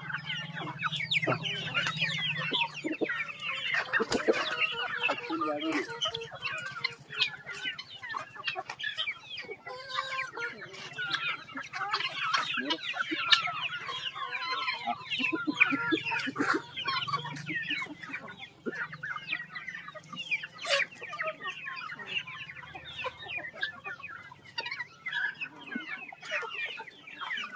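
A flock of Aseel chickens clucking, many short calls overlapping, with an occasional crow.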